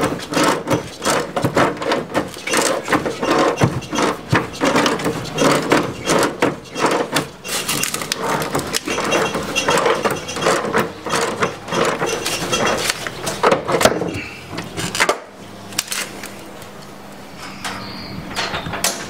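Dense, irregular knocking and clattering, like hard parts being handled, that thins out after about fifteen seconds into a quieter stretch with a faint steady hum.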